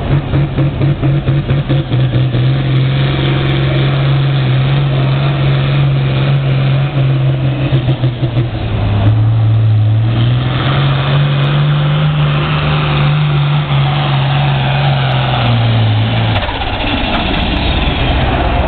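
Pulling tractor's engine working hard under load during a hook, choppy for the first couple of seconds and then holding a steady pitch. About nine seconds in the engine sags as the throttle is lost, then climbs again when it is punched, and the sound drops away suddenly about sixteen seconds in, leaving a lower engine rumble.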